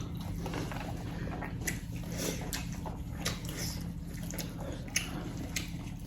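A person eating chicken close to the microphone: chewing, with scattered short clicks and smacks, over a steady low hum.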